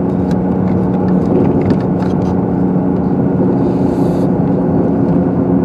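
A car's engine hum and road rumble heard from inside the cabin while driving on snow-covered roads, steady throughout, with a few faint clicks and a brief hiss about four seconds in.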